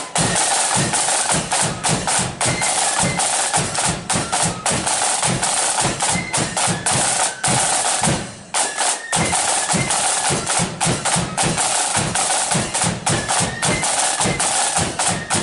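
Marching flute band playing, with snare drums beating rapid strikes and rolls over a bass drum and the flutes carrying the tune. There is a brief break in the drumming about eight seconds in.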